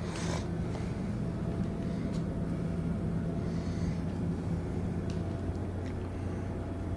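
Steady low mechanical hum of a cruise ship's machinery running during docking, with a short rustle right at the start; one of the hum's tones fades out about five seconds in.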